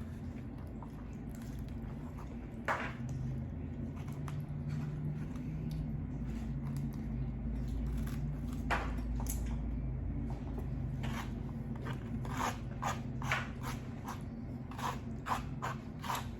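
A person eating lo mein close to the microphone, with wet mouth and chewing clicks that come sparsely at first and more often in the second half, over a steady low hum.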